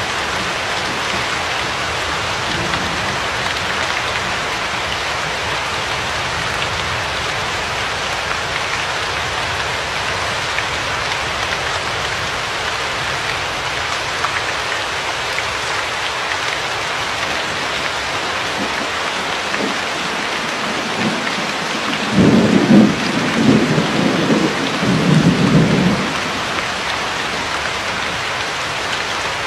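Steady rain falling, with a low rumble of thunder lasting about four seconds in the last third, the loudest sound here.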